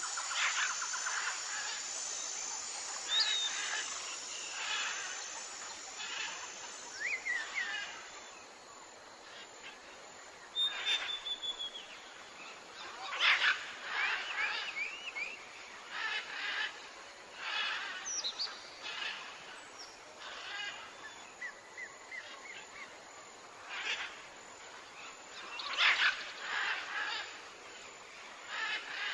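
Birds calling in the wild: scattered short chirps, trills and brief whistled glides, some in quick runs, over a steady high hiss that fades during the first several seconds.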